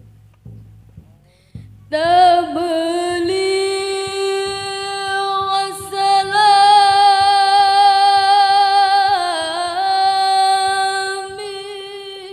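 A woman's voice singing a long, held sholawat note over a sound system, coming in about two seconds in and held at a nearly steady pitch for about ten seconds, with a brief dip and wavering near the end. Faint low hum and a few soft knocks come before it.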